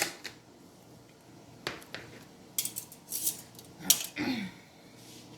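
Kitchenware clattering: a handful of sharp knocks and short scrapes as dishes, pans and utensils are set down and moved about.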